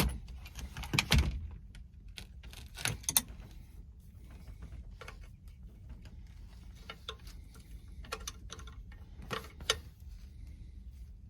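Wrenches clinking and tapping against the metal nuts and rods of a truck's parking-brake linkage, in scattered sharp clicks and knocks. The loudest come about a second in and about three seconds in.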